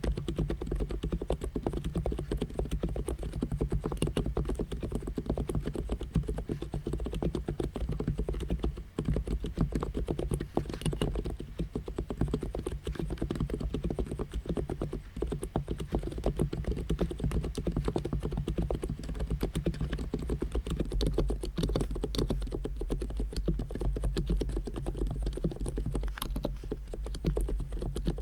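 Fast, continuous typing on an Abko K990 v3 capacitive keyboard with SA keycaps: a dense run of key clicks with a brief pause about nine seconds in.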